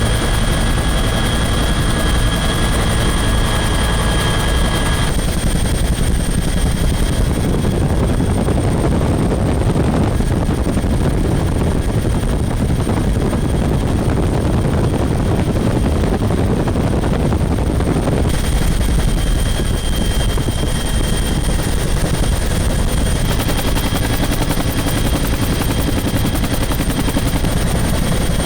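Bell 212 helicopter running steadily, a fast rotor chop under a high steady turbine whine. The timbre shifts around five seconds in and again at about eighteen seconds.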